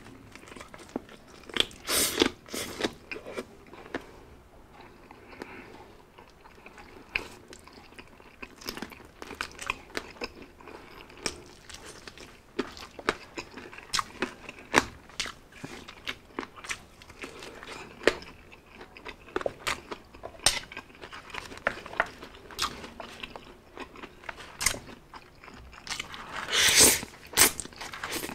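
Close-up eating sounds: a person biting and chewing crispy fried chicken, with many short crunches and wet mouth clicks. A louder, longer stretch of mouth noise comes near the end, when he moves on to spaghetti.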